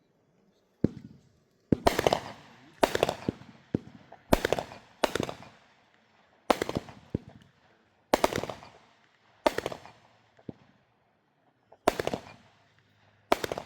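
Backyard fireworks going off in a series of sharp bangs, roughly one a second at an uneven pace, each trailing off in crackling.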